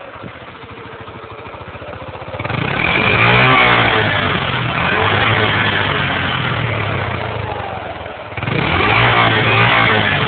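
Yamaha YBR125's single-cylinder four-stroke engine running at low revs, then revved hard about two and a half seconds in and held high, around 6000 rpm, for several seconds. It eases off briefly near the end, then is revved up again.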